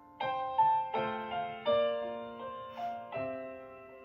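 Piano accompaniment playing an instrumental passage between vocal lines: chords and single notes struck about every half second, each left to ring and fade.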